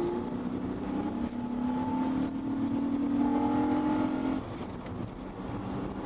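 Car engine accelerating: its pitch climbs steadily through a gear, then drops about four and a half seconds in as the gear changes or the driver lifts off.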